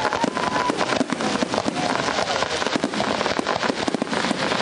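Fireworks display: a dense, unbroken barrage of rapid bangs and crackling, many shells bursting close together.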